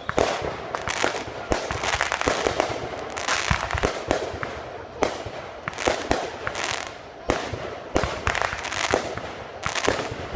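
Fireworks going off in a continuous string of sharp bangs and crackles, several reports a second, the loudness swelling and dipping as volleys follow one another.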